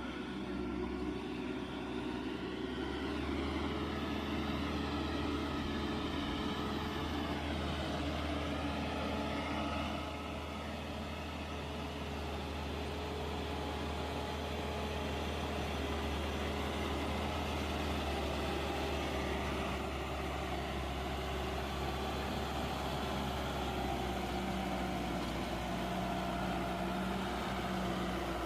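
Sonalika 60 hp tractor's diesel engine running steadily, its pitch wavering slightly.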